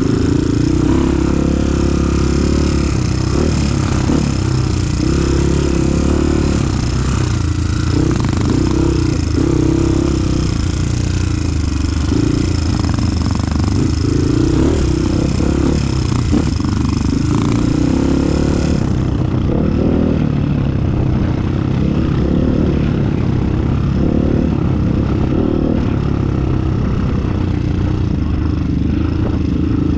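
Trail motorcycle engine running steadily under way on a rough track, with clattering and scraping over the bumps.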